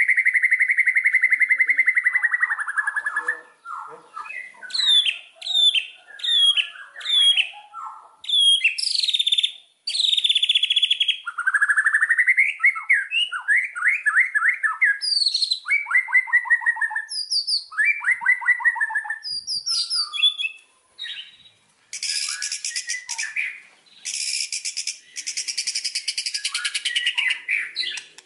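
White-rumped shama (murai batu) singing loudly in a varied run of phrases: a long drawn-out whistle, a series of sharp slurred notes, rapid rattling trills, then a dense harsh chattering over the last few seconds. This is a lure song played to stir other shamas into singing.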